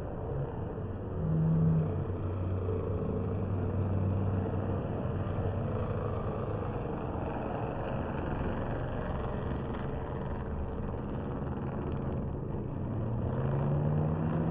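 MotoGP racing motorcycles' 1000cc engines running during a race, with one engine rising in pitch near the end as it accelerates.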